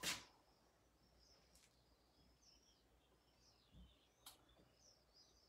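Near silence, with a small bird faintly chirping again and again in short twittering notes, and a single faint click about four seconds in.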